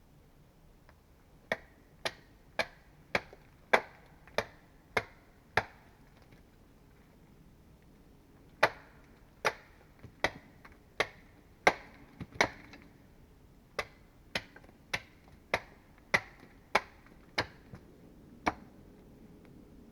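Hand tool striking wood in sharp, steady blows, about one and a half to two a second. The blows come in three runs with short pauses between, as in woodworking with an axe or mallet at a log.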